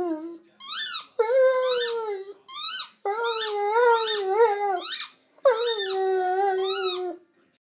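A dog howling in about four long, wavering calls, with short squeaky cries between them.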